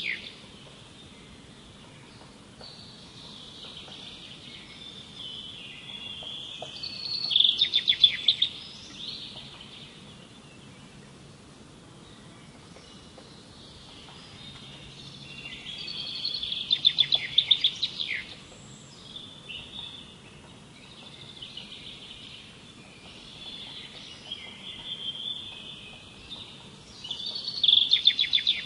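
Birdsong: a songbird repeats a loud phrase of rapid notes about every ten seconds, each swelling up and then ending, with softer warbling between the phrases.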